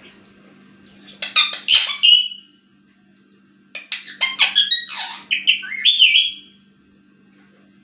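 Ringneck parrot vocalizing in two bursts of quick chattering syllables with sliding pitch, the second burst longer.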